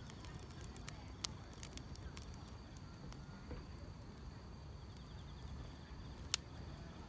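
Wood fire crackling: scattered sharp pops and snaps over a low rumble, one loud pop about six seconds in, with faint insect chirping.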